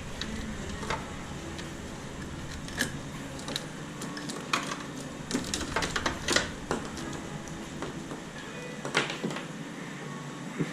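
Irregular clicks and clinks of hand tools and metal parts being handled while an engine is taken apart. The strikes cluster around the middle of the stretch.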